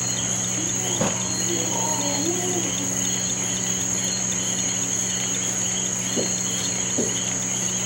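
Insects trilling: a steady high-pitched trill with a faster pulsing chirp beneath it, over a low steady hum, with a few soft clicks.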